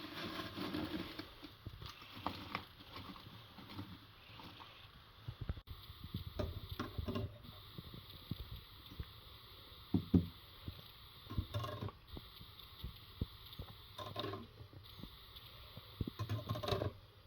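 Irregular knocks, clinks and brief rustling of kitchen handling, a few sharper knocks among them.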